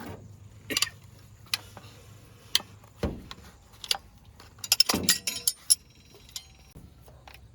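Hard objects clinking and knocking, the kind of metallic clinks heard when tools and parts are handled during a repair, irregular at first, then a quick cluster of clinks about two-thirds of the way through.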